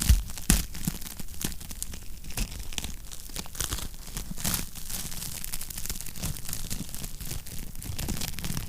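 Wood fire crackling in a fireplace, with irregular snaps and pops over a low rumble. Two louder pops come right at the start.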